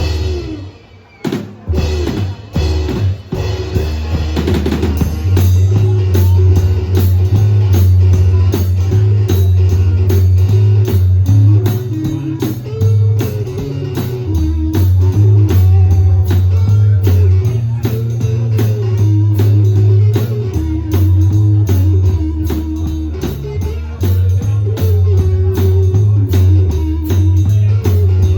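A blues band playing live, with a drum kit keeping a steady beat under guitar. The first few seconds are ragged, and the full groove settles in about five seconds in.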